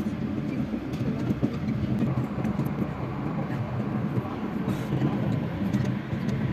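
Steady running noise of a moving passenger train heard from inside the carriage, with a few faint clicks over it.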